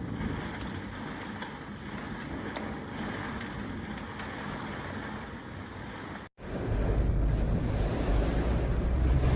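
Steady rush of wind and floodwater from the overflowing river. It cuts out for a moment about six seconds in, then comes back louder with a low rumble of wind buffeting the microphone.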